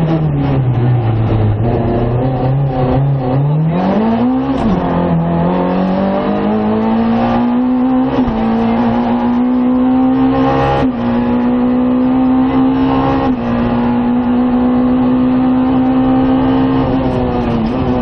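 Rally car engine heard from inside the cockpit at speed. The revs drop in the first couple of seconds as the car slows, climb again about four seconds in, then hold high and steady with a few brief dips.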